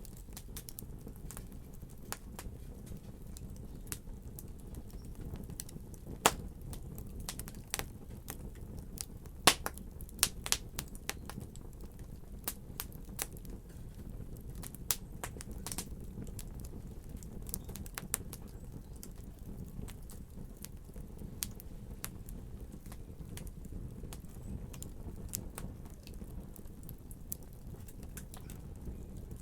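Wood fire burning in a fireplace: a steady low rumble of flames with irregular sharp crackles and pops, a few louder pops bunched in the first half.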